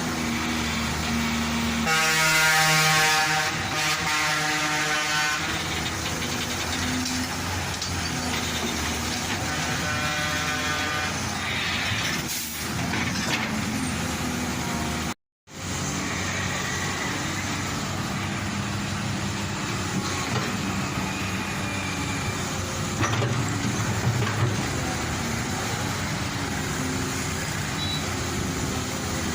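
Heavy vehicle engine running steadily, with a horn sounding in pulses for about three seconds near the start and a shorter horn around ten seconds in. The sound drops out completely for a moment about halfway through.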